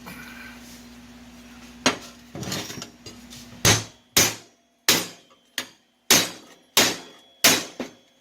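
Hand hammer striking steel: a single blow about two seconds in, then a steady run of blows at nearly two a second from about halfway through.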